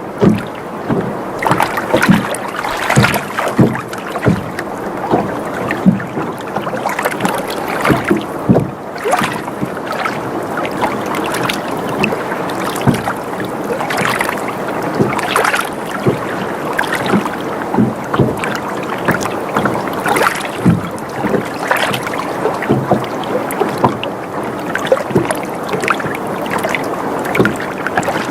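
Water sloshing against a sailboat's hull, with frequent irregular short knocks and creaks from the boat as it rocks.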